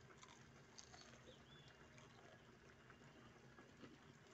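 Near silence with faint, scattered clicks of someone chewing a crunchy breaded, fried cheese stick.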